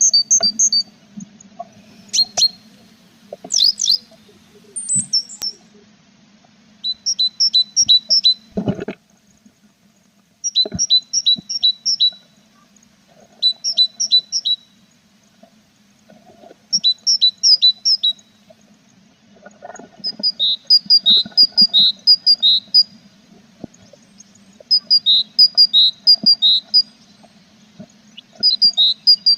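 Tit nestlings in a nest box giving begging calls: bursts of rapid high chirps, each about a second long, repeating every few seconds. A steady low hum runs underneath, and there is a single thud about nine seconds in.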